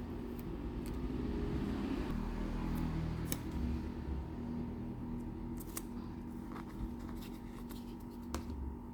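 Scattered light clicks and taps of small toy trucks being handled, over a steady low hum.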